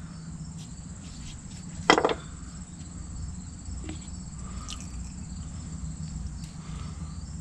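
Steady high-pitched insect chirring, like crickets, over a low background rumble, with one short sharp sound about two seconds in.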